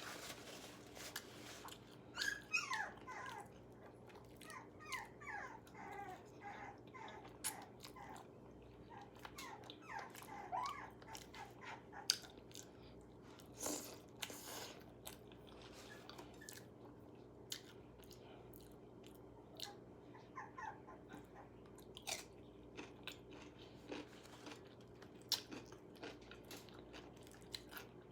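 Dog whining in runs of short, falling whimpers, mostly in the first ten seconds and again briefly later on. Crisp crunching and chewing clicks come throughout.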